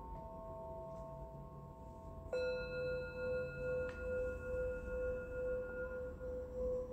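Singing bowls ringing: earlier tones fade out, then a bowl is struck about two seconds in and rings on with a slow, wavering beat.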